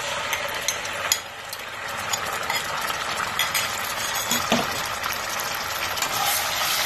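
Ginger-garlic paste sizzling in hot oil and ghee in a pan, a steady hiss with scattered crackles.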